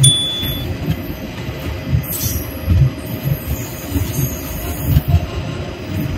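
Train running on rails, its wheels knocking over the rail joints in an uneven beat, roughly once a second and some in quick pairs, over a steady low rumble.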